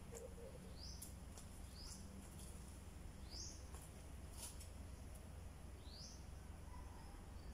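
A bird's short rising chirp, repeated four times at irregular intervals over faint, steady outdoor background noise.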